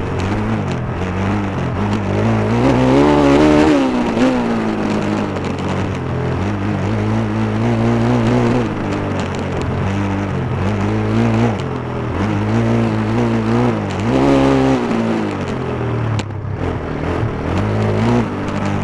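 Stomp KZR140 pit bike's single-cylinder four-stroke engine under riding load, the throttle opened and closed repeatedly, so the engine pitch rises and falls. Two long high revs come about 3 seconds in and again near the middle, with shorter rises between them.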